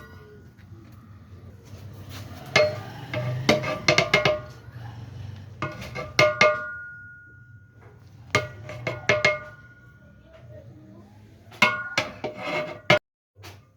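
A metal ladle knocking against a large metal cooking pot (deg). There are four bursts of several sharp strikes each, and every strike rings on at a few clear pitches.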